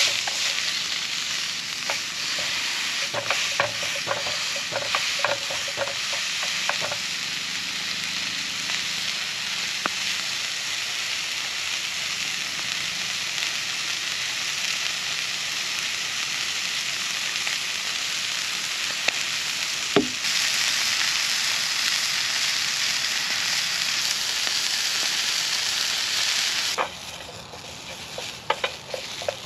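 Burger patty sizzling in a frying pan on a portable camp stove, a steady hiss with clicks and scrapes of a spatula against the pan in the first few seconds and a single sharp knock about two-thirds through. Near the end the sizzle drops suddenly to a quieter frying of onion rings.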